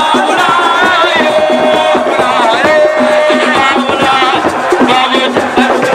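Music from a wrestling-camp celebration: sabar drums beaten in fast, dense strokes, with a single voice singing long, wavering, gliding lines over them.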